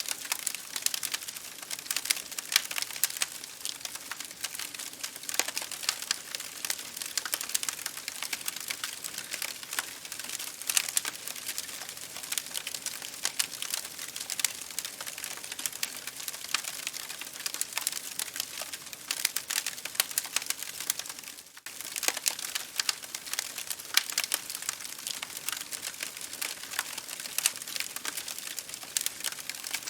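Campfire crackling: dense, irregular sharp pops and snaps over a soft hiss, dropping out for a split second about two-thirds of the way through.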